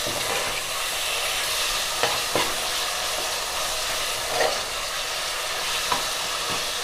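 Goat liver pieces sizzling in hot oil with small onions and curry leaves in a pressure cooker, stirred with a spatula that scrapes the pan a few times. This is the liver frying at the start of the sauté.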